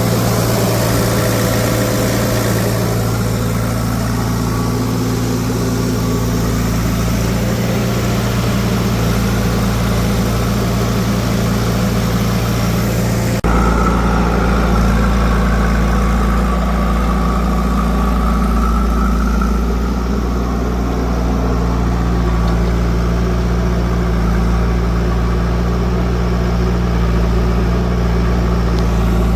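Heavy diesel machinery engines running steadily at low speed, the engine sound changing abruptly about halfway through.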